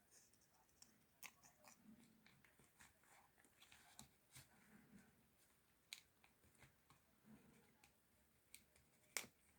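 A pet parrot eating peanut butter: faint, irregular clicks and smacks of its beak and tongue, with one sharper click near the end.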